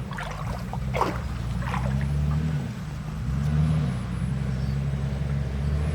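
Backhoe loader's diesel engine running steadily, its revs rising and falling slightly, with water splashing in the first two seconds.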